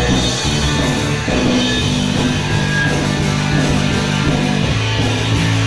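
Punk rock band playing live, guitar-led, with held chords that change every second or so.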